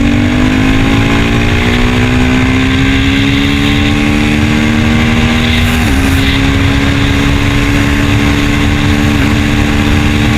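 KTM Duke 390's single-cylinder engine pulling under load while riding. Its note climbs slowly for about six seconds, dips briefly, then holds steady, with wind rumbling on the microphone.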